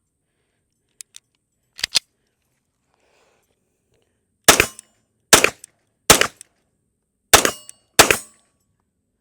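Taurus PT92 AFD 9mm pistol fired five times, the shots coming less than a second apart. A few brief clicks come first.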